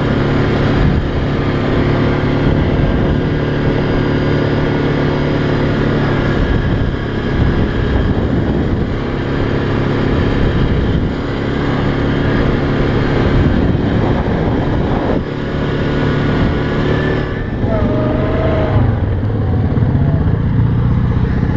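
ATV engine running under way on a rough dirt road, with steady engine drone and bumpy road and wind noise; the engine pitch rises near the end as it speeds up.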